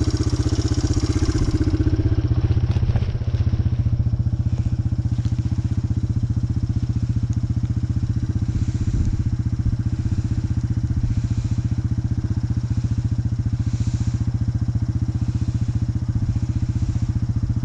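Small vehicle engine running steadily at a low, even speed.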